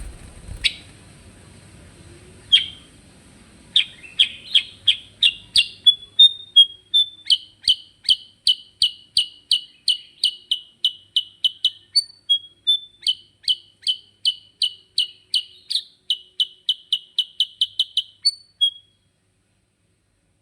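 A kutilang sutra (bulbul) singing a long rolling song of quick, evenly repeated whistled notes, about three a second, after a couple of single calls. The song breaks off abruptly near the end.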